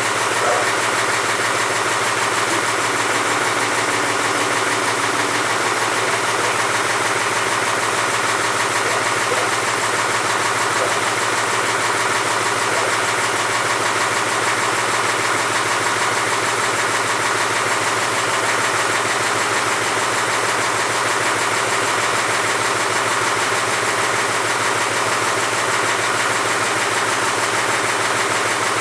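Mahindra C35 compact tractor's diesel engine idling steadily, with no change in speed.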